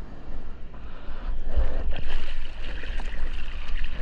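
Ocean water rushing and sloshing close to a GoPro, with low rumbling buffeting on the microphone; the rush grows louder about a second and a half in.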